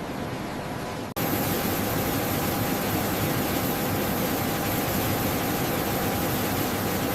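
Steady machine noise with a faint hum running through it; about a second in it cuts abruptly and comes back louder and brighter.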